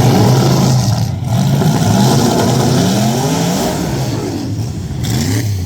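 Car engine accelerating hard, its pitch climbing, with a brief dip about a second in and another near the end.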